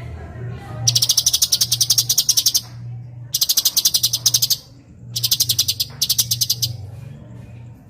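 Cucak cungkok songbird giving three rapid, high-pitched chattering trills, each lasting a second or more, over a low steady hum.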